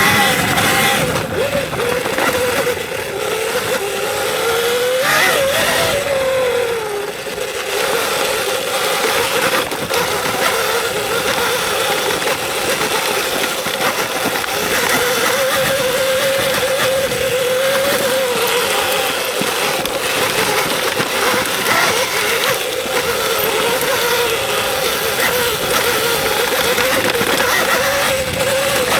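Electric dirt bike's motor whining as it rides a trail, the pitch rising and falling with the throttle, with a sharp climb and drop about five seconds in, over steady wind and tyre noise.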